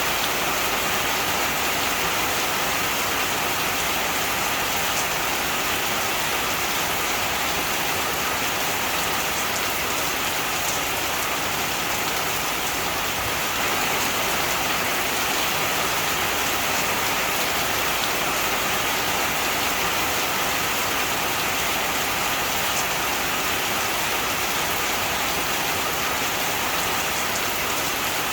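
Heavy rain falling steadily, an even hiss with a few individual drops heard now and then.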